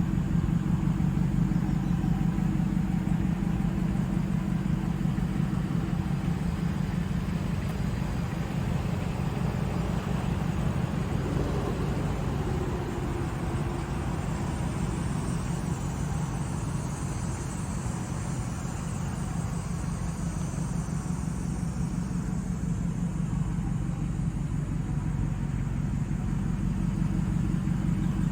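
Supercharged 5.4-litre V8 of a 2004 Ford F-150 SVT Lightning idling steadily, a low, even engine note.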